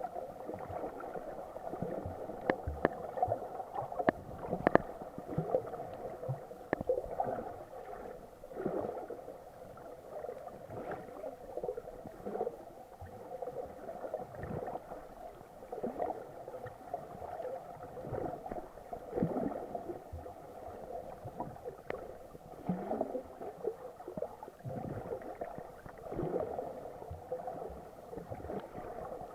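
Muffled underwater water noise picked up through an action camera's sealed waterproof housing: a steady dull murmur with irregular gurgling swells every second or two, and a few sharp ticks in the first several seconds.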